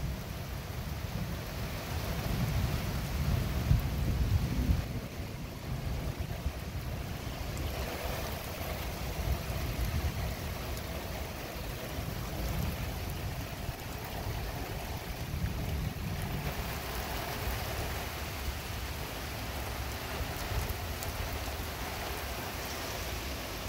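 Steady rain falling in a thunderstorm, with gusts of wind buffeting the microphone in an uneven low rumble.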